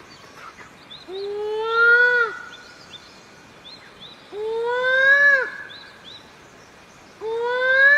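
A bird calling: three long, drawn-out calls about three seconds apart, each rising slightly in pitch and then dropping at the end, with short high chirps between them.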